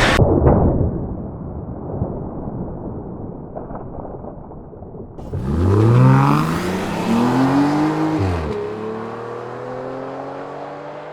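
Car engine revving, rising and falling in pitch twice in quick succession about halfway through, then pulling with a steady note that climbs slowly.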